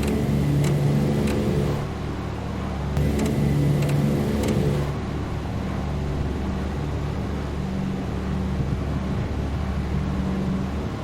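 The DC-3's engines running steadily with a deep, even drone. It swells louder twice in the first five seconds, with an added rushing hiss and a few sharp ticks.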